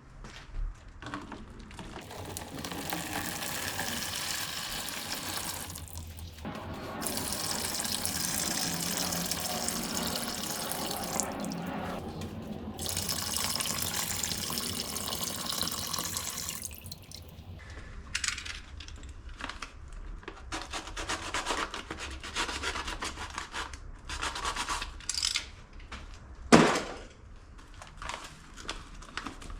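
Water running from a tap for about fifteen seconds, cut off briefly twice, as metal parts are rinsed. This is followed by scattered rubbing and clinks of the parts being handled, with one loud knock near the end.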